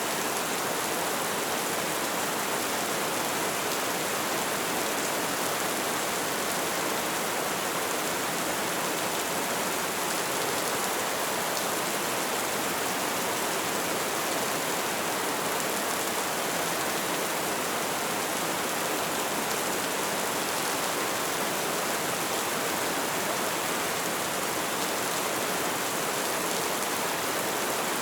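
Light rain falling steadily: an even, unbroken hiss of drops.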